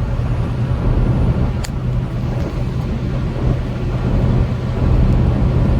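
Steady low drone of a semi-truck's diesel engine and road noise, heard from inside the cab while driving.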